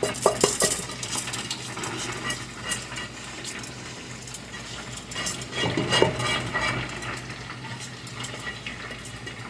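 Rice being scooped out with a utensil and tipped into a cooking pot: scattered clinks and scrapes of utensil against container, a cluster near the start and another a little past halfway.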